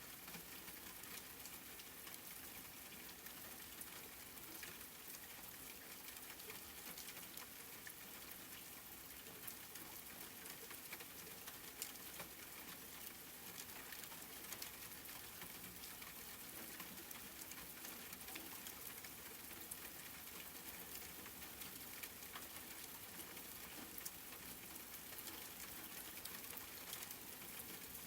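Steady, faint rain falling, a continuous hiss dotted with many small, sharp ticks of individual drops striking a surface.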